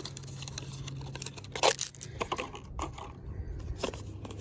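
Small parts and their packaging being handled: a few scattered clicks and knocks over a steady low hum.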